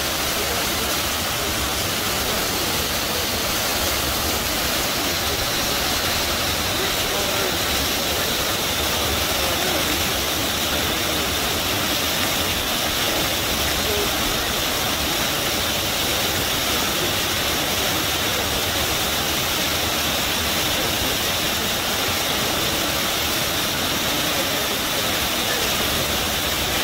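River water rushing and gushing in a steady, unbroken roar of noise.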